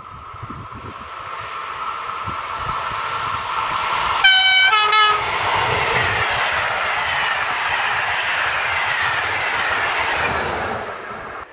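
A train on an electrified main line approaching and passing at speed. About four seconds in it sounds two short horn notes of different pitch, one after the other. Then comes the loud rush of the passing train, its pitch slowly falling, until it cuts off suddenly near the end.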